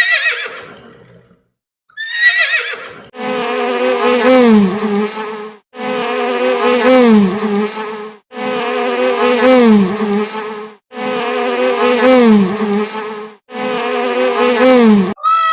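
A horse whinnies twice, then a buzzing insect sound plays five times in a row, each buzz about two and a half seconds long with a short gap between, its pitch dipping and rising within each buzz.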